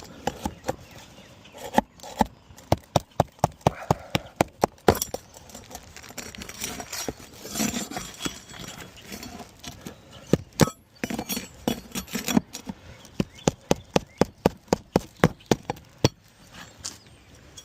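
Runs of sharp knocks, several a second, with pauses between the runs, from tools working a hail-damaged asphalt shingle loose to remove it from the roof.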